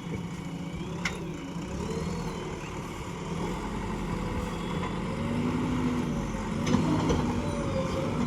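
JCB 3DX backhoe loader's diesel engine running, working harder and rising in pitch past the middle. Two sharp knocks sound, one about a second in and one near the end.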